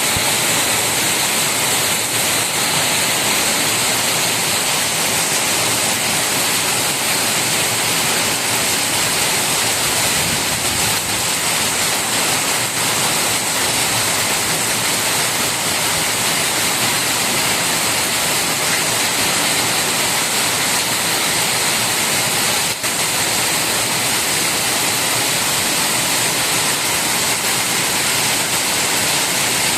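Rain falling steadily: a loud, even hiss that holds without a break.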